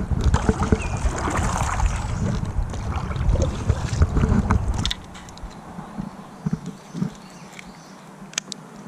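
Low rumbling wind and rubbing noise on a chest-worn camera's microphone for about five seconds, then a quieter stretch with a few light clicks and knocks.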